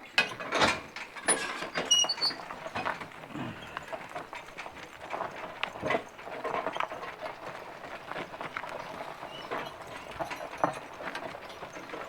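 Draft horses' hooves clopping, mixed with irregular clinking and rattling of harness and a hay wagon as the team works the load.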